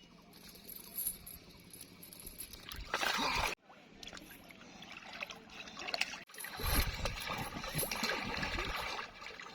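Water splashing and sloshing, in a few short stretches that break off abruptly about three and a half and six seconds in.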